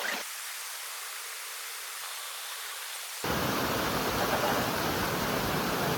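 Rushing water of a small waterfall, a steady hiss that abruptly becomes a louder, deeper rush about three seconds in.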